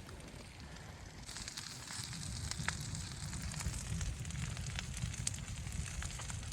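Wood fire crackling and hissing, most likely in the hot tent's wood stove, with sharp pops scattered through it. The hiss swells up about a second in, over a steady low rumble.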